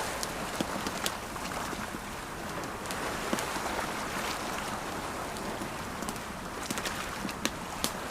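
Campfire crackling, with sharp pops scattered throughout and a few louder ones near the end, over the steady wash of ocean waves.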